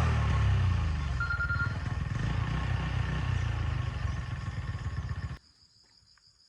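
Motorbike engine running, its pitch falling at first and the sound slowly easing. It cuts off abruptly about five seconds in.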